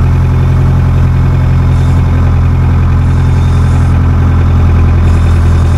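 Tractor diesel engine running steadily at a constant speed, a loud, even low hum.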